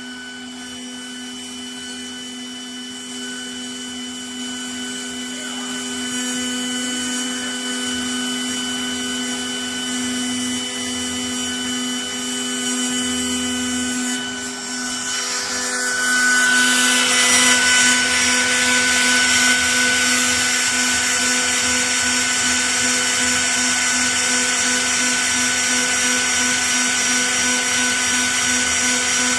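Spindle of a 6090 CNC router running with a steady whine while the bit engraves MDF board. About halfway through, a louder hiss of cutting joins in and carries on.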